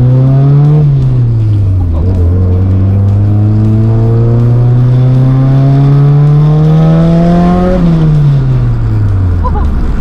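Nissan S14's turbocharged SR20 four-cylinder engine pulling under acceleration: its pitch rises briefly, drops away about a second in, then climbs slowly and steadily for about six seconds before falling off near the end as the throttle comes off.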